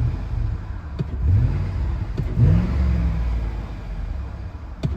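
Vehicle engine running at idle, revved up twice in short throttle blips, the pitch rising and settling each time.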